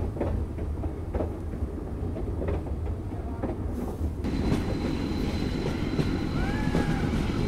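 Metre-gauge train running, with a steady rumble and the irregular clack of wheels over rail joints. The sound gets a little fuller about four seconds in.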